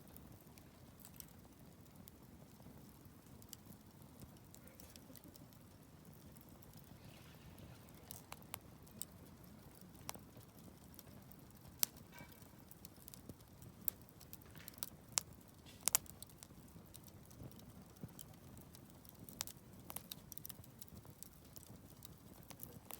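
Wood campfire burning: a faint low rustle under scattered sharp crackles and pops, which come thicker and louder through the middle.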